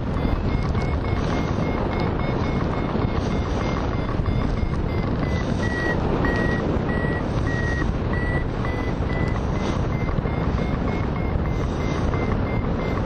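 Hang glider variometer beeping in a steady train of short high beeps, the climb tone that signals the glider is rising in lift; the pitch dips slightly in the middle. Steady wind rush in flight underneath.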